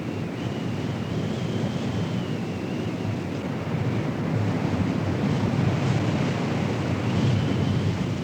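Strong wind rushing and buffeting the microphone, a steady low rumbling noise that swells slightly in the second half, with a faint high wavering whine above it.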